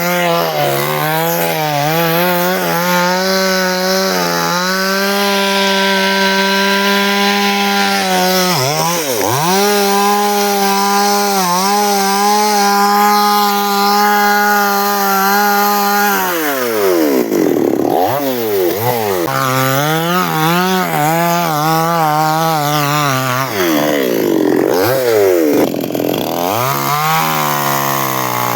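Chainsaw engine running at high speed while cutting through wood. The pitch holds steady for long stretches, then from a little past the middle it drops and revs back up several times.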